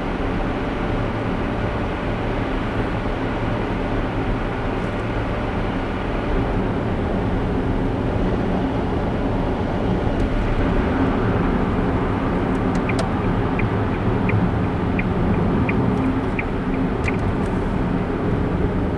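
A car driving steadily, with an even road and engine rumble. Past the middle comes a run of about seven evenly spaced ticks, roughly one every 0.7 seconds, like a turn-signal indicator, before it stops.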